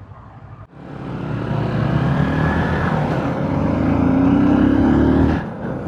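Motorcycle accelerating: after a brief lull about half a second in, the engine note and road noise build, the engine pitch rising steadily for several seconds, then falling away abruptly near the end.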